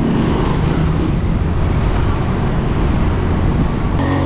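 Motor traffic on a busy road, a steady dense rumble of vehicles. About four seconds in there is a sharp click, and a steady engine hum with a higher whine comes in.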